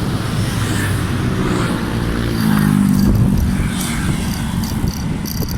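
Motor vehicle engine running on the road, its pitch rising and falling and getting louder about two and a half seconds in as it passes.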